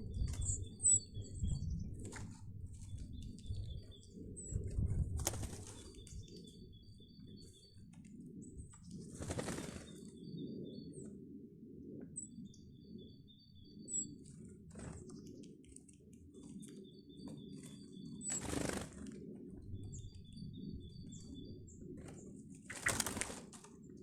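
Garden birds feeding: repeated short high call notes throughout, with several brief flurries of wingbeats as birds fly in and out.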